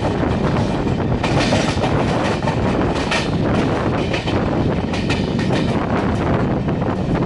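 Passenger train coaches running at speed: a steady rumble of wheels on the rails, with bursts of clickety-clack over rail joints about one, three and five seconds in.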